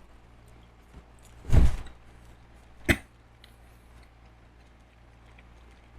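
A person coughs once, about a second and a half in, then makes a second, shorter and sharper cough or throat-clear about a second later.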